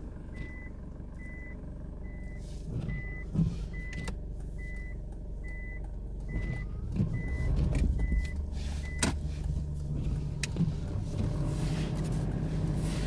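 A car's in-cabin reverse-gear warning beeping about twice a second over the steady hum of its engine as it backs up on a snowy road. About nine seconds in the beeping stops with a click, and the engine grows louder.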